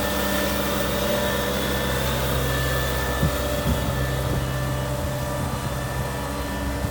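Diesel engine of a CAT 226B skid steer loader running at a steady speed, with a couple of brief knocks about halfway through.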